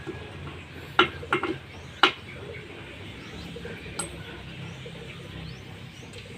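Sharp metallic clinks and knocks from motorcycle engine parts and tools being handled: a hard clink about a second in, a quick cluster just after, another near two seconds, and a lighter one around four seconds.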